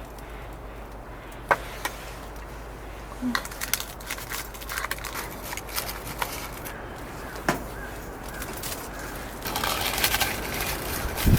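Scattered light clicks and knocks of cookware and utensils being handled, busier about ten seconds in, over a steady low hum.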